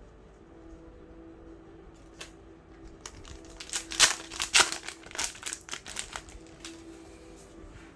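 A trading-card booster pack wrapper crinkling as it is torn open, a cluster of crackles for about three seconds, loudest around the middle.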